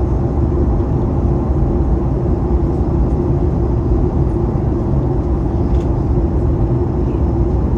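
Cabin noise aboard a Boeing 737 MAX 8, heard from inside the cabin: a steady low rumble of engines and airflow with a constant hum, unchanging throughout.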